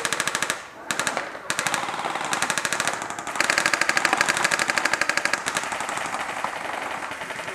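Airsoft guns firing in several rapid full-auto bursts of sharp clicks, the longest and loudest lasting about two seconds midway through.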